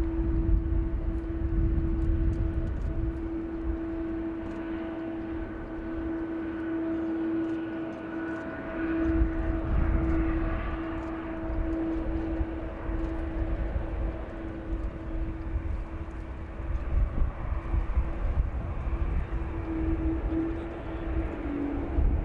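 Jet airliner engines running steadily at a distance, a constant whine that swells for a few seconds around the middle. Wind buffets the microphone throughout.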